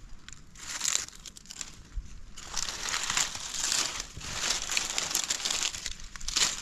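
Rustling, crinkling noise that grows much louder about two and a half seconds in.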